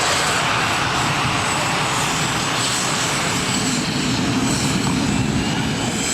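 AV-8B Harrier's Rolls-Royce Pegasus turbofan running loud and steady as the jet hovers down for a vertical landing, with a thin high whine over the jet noise.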